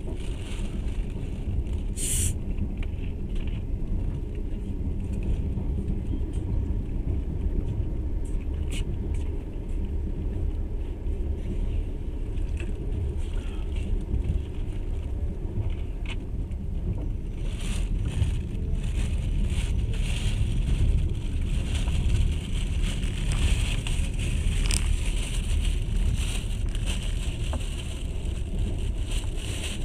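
Passenger train running along the track, heard from inside the carriage: a steady low rumble with scattered rattles and clicks, busier in the second half, and a sharp click about two seconds in.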